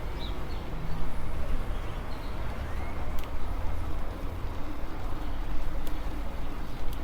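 Wind buffeting a foam-covered lapel microphone on a moving e-bike: an uneven low rumble, with a couple of faint clicks partway through.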